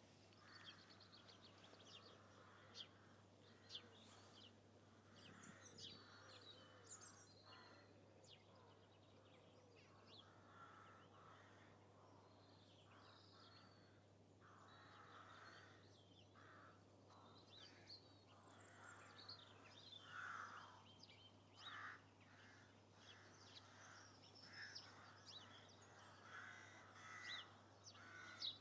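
Faint outdoor birdsong: many short, high chirps and calls from several birds, with harsher, lower calls now and then.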